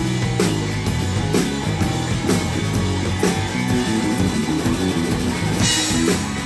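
Live rock band playing an instrumental passage: electric guitar chords over bass and a drum kit keeping a steady beat.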